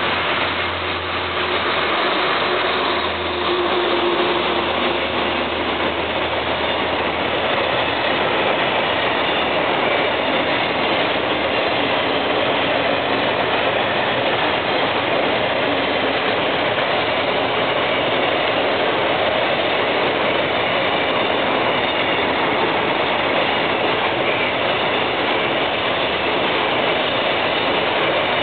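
A DF200 diesel-electric locomotive and its long container freight train pass through without stopping, a steady noise of wheels on rails that grows louder about four seconds in and then holds.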